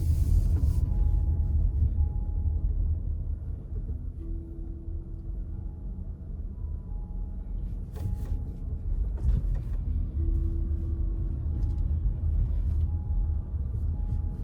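Low, steady rumble of a car being driven, with a couple of faint clicks about eight and nine seconds in.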